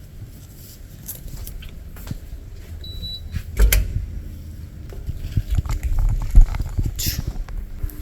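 A key card reader gives a short high electronic beep about three seconds in, followed by a loud clunk from the door, amid the rustling and low thumps of camera handling and walking.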